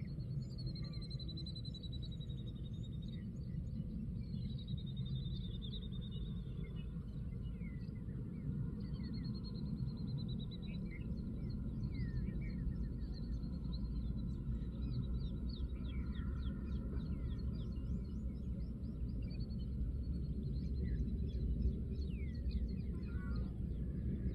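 Wind rumbling on the microphone, with small birds chirping and calling repeatedly over it, including a few longer warbling calls in the first ten seconds.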